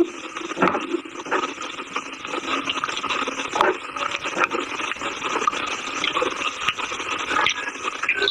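Chalk being crunched and chewed: irregular sharp crunches and crackles, several a second, over a steady gritty grinding.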